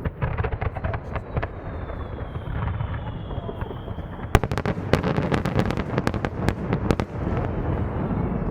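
Fireworks display: a dense crackle, then a thin whistle held for about three seconds, then a rapid run of sharp bangs over a constant low rumble of bursting shells.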